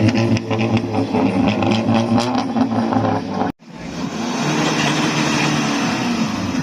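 Car engine running at raised revs with short sharp clicks over it, then, after an abrupt cut just past halfway, a car engine running steadily.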